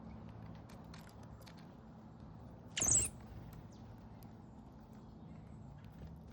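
Backyard bird feeder ambience: scattered small clicks and taps of birds at the feeder over a steady low hum, with one brief, high-pitched bird call about three seconds in, the loudest sound.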